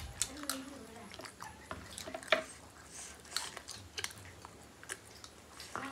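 Close-up mukbang eating: people chewing macaroni, with wet mouth sounds and scattered sharp clicks and smacks. The sharpest click comes about two and a half seconds in.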